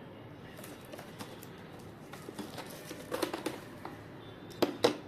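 Parts and packaging being handled during assembly: scattered light clicks and taps, a quick cluster about three seconds in, and two sharp clicks near the end.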